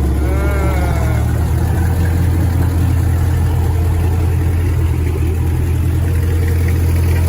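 A car engine running steadily with a low, even drone.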